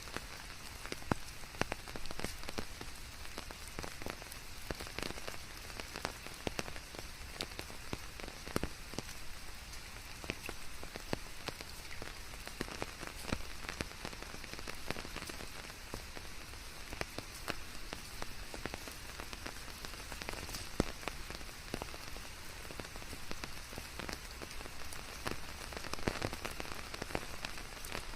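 Steady rain with many separate raindrops pattering irregularly on leaves.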